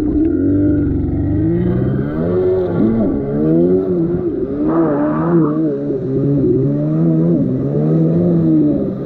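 Kawasaki X2 jet ski's 650 cc two-stroke twin running under way, its pitch rising and falling over and over as the throttle changes. A brief hiss sounds about five seconds in.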